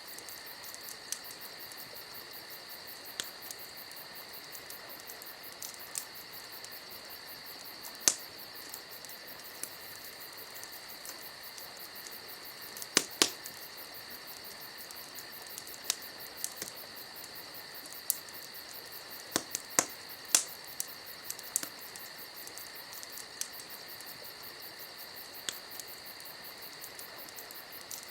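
Crickets trilling steadily, with irregular sharp pops and crackles from a burning wood campfire, a few of them much louder than the rest.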